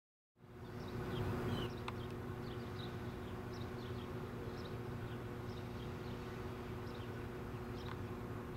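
After a moment of silence, a faint steady hum from an approaching NJ Transit commuter train fades in. Birds chirp over it.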